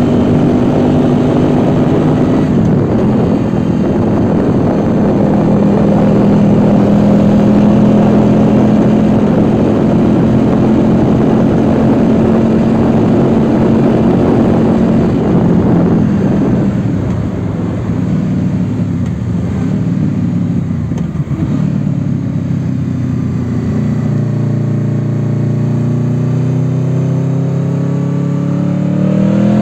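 Honda VFR800X Crossrunner's V4 engine running at a steady cruise with wind noise. About halfway through the throttle is rolled off for a hairpin and the engine note drops and fades, then near the end it revs up, rising in pitch, as the bike accelerates out of the bend.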